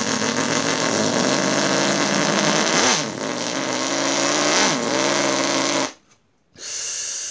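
Demolition derby car's carbureted engine running hard under the throttle, its pitch dipping and climbing back twice. It cuts off suddenly about six seconds in, and a brief hissing noise follows.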